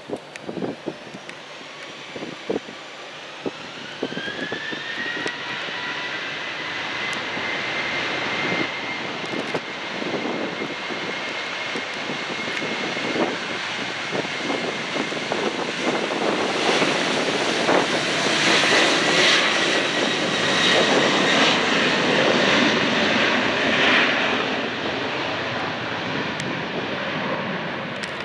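Airplane engines spooling up: a rising whine that levels off into a steady high tone, with a broad engine rush that builds and is loudest past the middle as the aircraft powers up and goes by.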